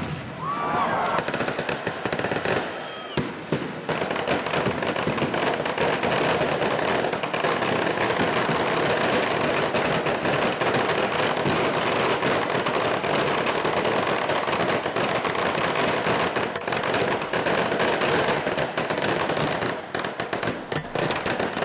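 A string of firecrackers going off in a long, rapid run of bangs. A few scattered pops come first, and the bangs thicken into a dense continuous crackle about four seconds in.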